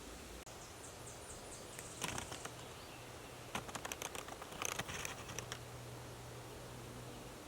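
Bird calls: a quick series of thin, high notes, then two bouts of fast, clicky chattering.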